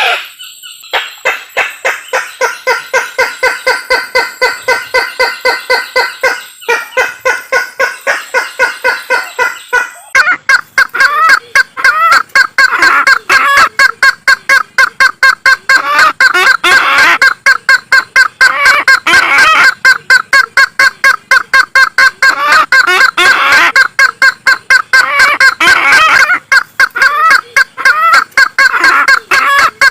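Calls of the kareo Sulawesi (tattakeo labuju), a Sulawesi waterhen, played as a lure: a fast, unbroken run of repeated call notes, several a second, that grows louder and denser about ten seconds in.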